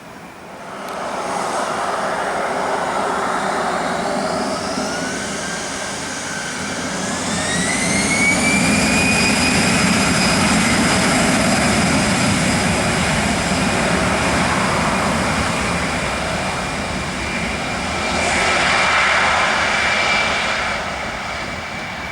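Airbus A320-214's twin CFM56 jet engines spooling up, their whine rising in pitch for several seconds and then holding steady at high power with a loud rush of jet noise, swelling again near the end.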